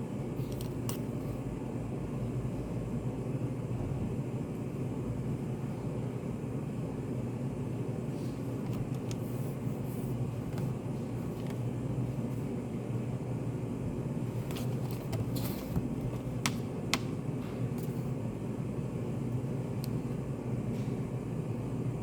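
Study-cafe room ambience: a steady low hum, like ventilation or air conditioning, with a few small sharp clicks and taps scattered through it, most of them bunched together about two thirds of the way in.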